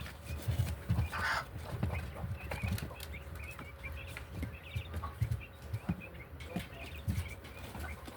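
Pet hens moving about, with a run of soft low thumps and wing flaps and a few short high chirps in the middle.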